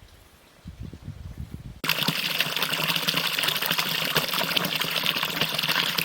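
Water pouring or running in a steady rush that starts suddenly about two seconds in, after a few low thumps.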